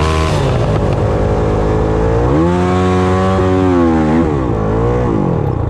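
Motocross dirt bike engine running, then revving up about two seconds in and holding high for about two seconds before dropping, with a second shorter rev near the end that falls back.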